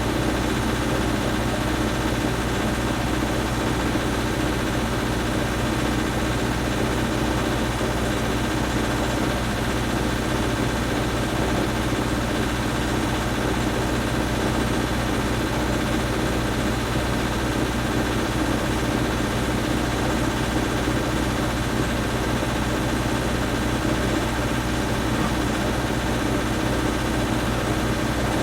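Engine running steadily at a constant speed, a low even hum with no revving or change.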